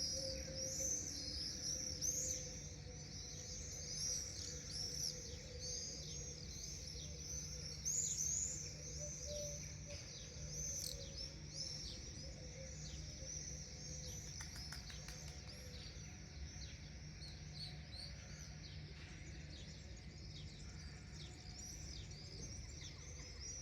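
A flock of insect-hunting birds in flight, giving many overlapping high, short chirps, busiest in the first ten seconds and thinning toward the end, over a steady low hum.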